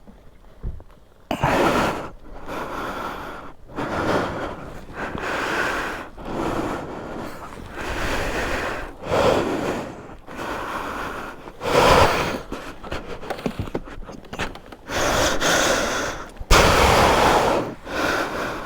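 A man breathing hard and heavily, a loud breath roughly every second, out of breath after hauling and pushing a heavy adventure motorcycle by hand.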